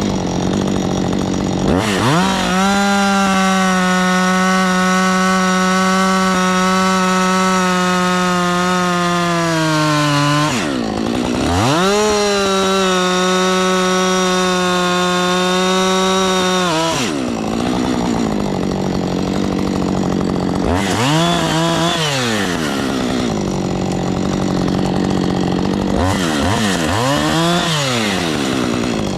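Diesel engine of an earthmoving machine working: it revs up about two seconds in and holds, sags and drops back near ten seconds, revs up again until about seventeen seconds, then surges up and down twice more, briefly, as the hydraulics are worked.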